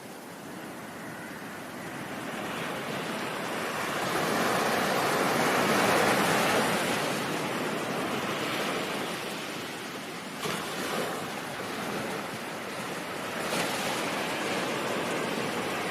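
Ocean surf: a wave builds over several seconds to a peak about six seconds in, then washes back, with two brief splashes later on.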